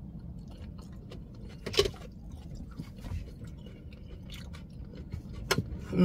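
Close chewing of a mouthful of shaved Brussels sprouts and kale salad, with small clicks throughout and two sharper clicks, about two seconds in and again near the end.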